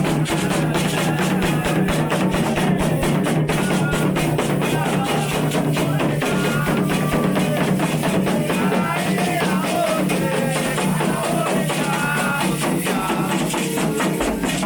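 Candomblé ritual music: continuous hand drumming in a fast, steady rhythm with chanted singing over it.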